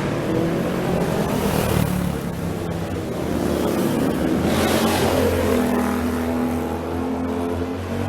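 Several racing motorcycle engines running on a start grid, idling with throttle blips, one revving up and back down about halfway through.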